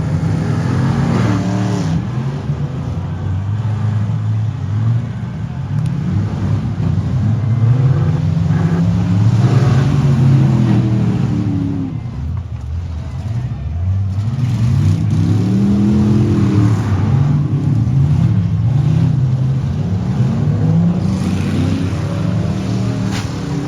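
Truck and van engines revving hard, their pitch climbing and falling again and again, with more than one engine running at once.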